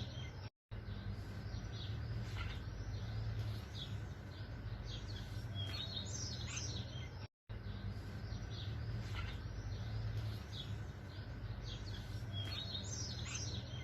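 Small birds chirping and twittering in short clusters over a steady low background rumble. The sound cuts out completely for a moment twice, about half a second in and again past the seven-second mark.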